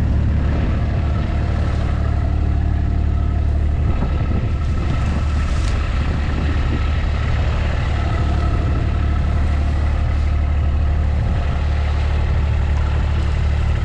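A farm vehicle's engine running steadily at an even speed, a constant low hum.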